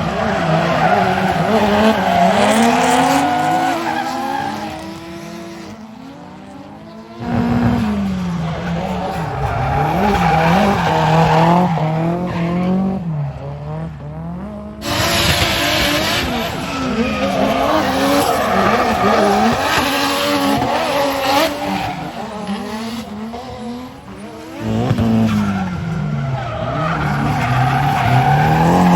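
Drift car engines revving hard, the pitch swinging up and down as the throttle is worked, over tyres screeching as they slide. The sound changes abruptly about 7, 15 and 25 seconds in.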